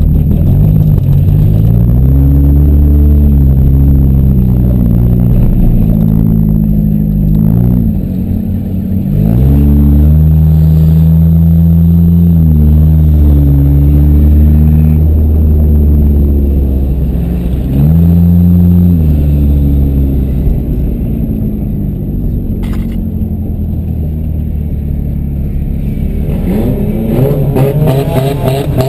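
Demolition derby cars' engines running loud and revving, their pitch rising and falling again and again. A single sharp knock comes about two-thirds of the way through, and the sound turns rougher and clattery near the end.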